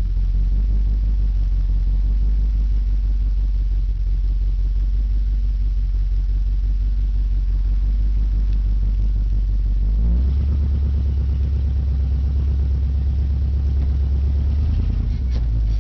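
1990 Chevrolet Caprice 9C1 police-pack car's 350 V8 on straight headers, a loud open-exhaust rumble while driving slowly. About ten seconds in the engine note steps up under a bit more throttle, then settles back near the end.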